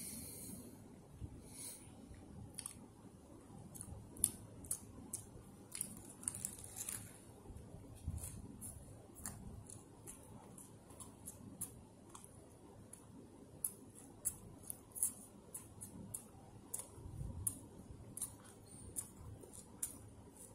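Close-up chewing of a burger with the mouth working noisily: wet smacking and clicking sounds at an irregular pace.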